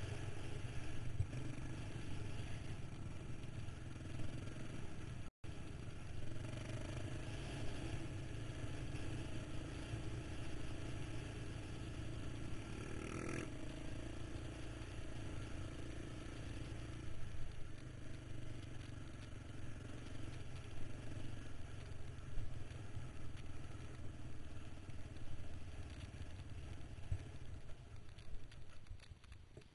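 KTM 525 XC quad's single-cylinder four-stroke engine running, recorded on board with a continuous rush of noise. The sound cuts out for an instant about five seconds in and drops in level near the end.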